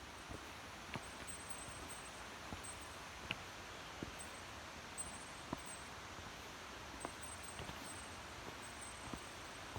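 Mountain stream running over rocks: a steady rush of shallow water, with scattered small clicks and plops from the current.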